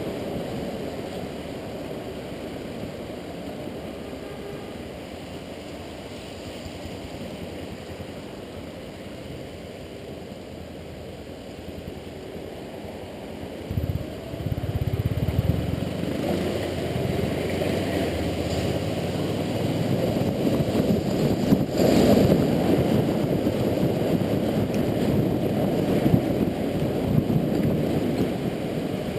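Riding noise from a Honda Integra NC750D on a wet road: a steady rush of wind and tyre spray with the parallel-twin engine underneath. About halfway through a low engine note comes in sharply and the whole sound grows louder as the bike picks up speed.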